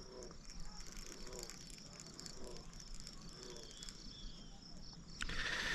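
Faint evening chorus of chirping insects, a steady high pulsing, with a few soft low calls. A louder rushing noise starts near the end.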